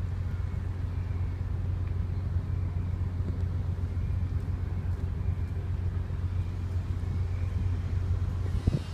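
Steady low drone of a ferry's engines, heard on board, with a couple of short low thumps near the end.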